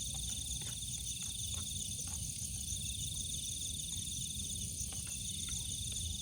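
Night chorus of crickets and other insects: several high, steady, pulsing trills at different pitches, one of which drops out and starts again in stretches, over a low steady rumble.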